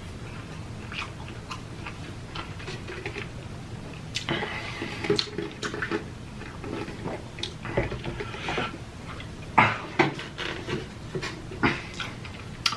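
A person chewing food with the mouth close to the microphone, with wet smacking and sharp clicks from the mouth.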